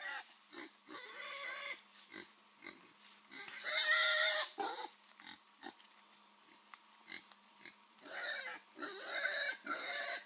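Pig squealing and grunting: long high squeals come in three spells, the loudest about four seconds in, with short grunts between them.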